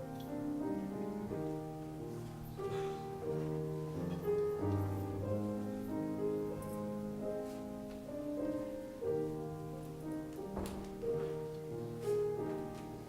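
Slow instrumental piano music, with held chords under a simple melody and no singing.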